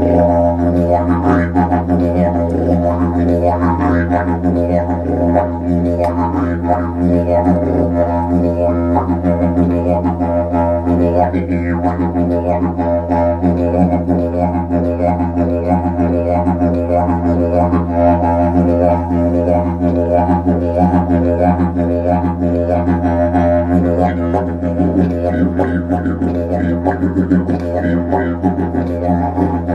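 Didgeridoo playing one unbroken low drone, with a busy, constantly shifting pattern of overtones above the steady bass note.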